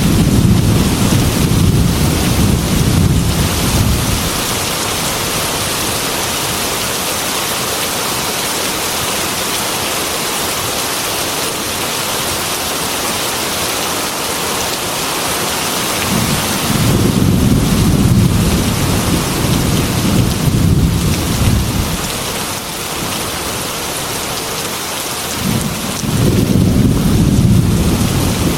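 Heavy rain beating steadily on a glass window, with rolling thunder. A rumble fades out about four seconds in, another rolls through the second half, and a third builds near the end.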